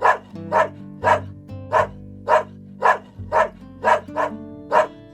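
A dog barking in a steady run of short single barks, about two a second, over background music with low held notes.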